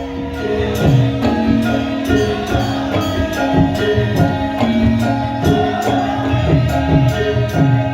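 Javanese gamelan music of the kind that accompanies Wonosobo lengger dancing: an ensemble of pitched percussion and drums playing a steady, fast rhythm.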